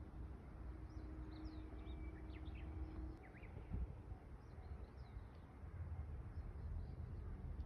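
Birds chirping faintly in short, high, scattered notes over a steady low rumble.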